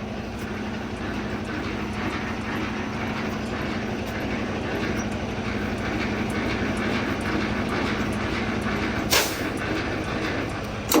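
Truck running on the road: a steady engine hum with road noise, and a sharp click a little after nine seconds in.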